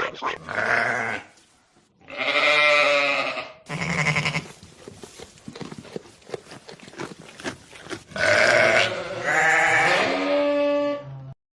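Bleating farm animal calling four times in long, wavering bleats, with a stretch of quick clicking and rustling between the calls.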